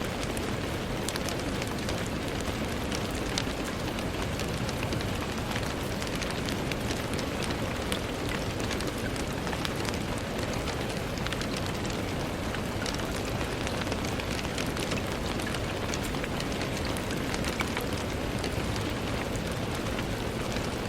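Steady rain falling on a window, an even hiss with many small drop ticks scattered through it.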